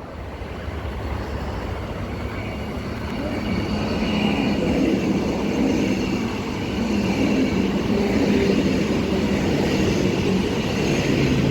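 Two coupled Transperth electric multiple units running through the station at speed without stopping. The rolling rumble of wheels on rail builds over the first few seconds, then holds steady with a faint motor whine.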